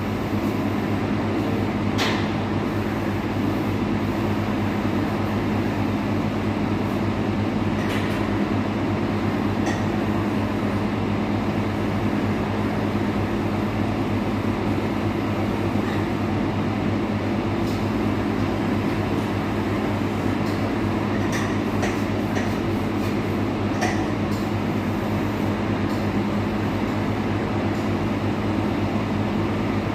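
A steady, loud mechanical drone with a low hum, and a few faint clicks now and then.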